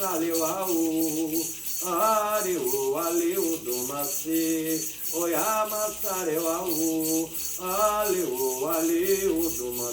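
A Candomblé ritual chant sung in phrases of a second or two, over a rattle shaken in a steady, quick beat.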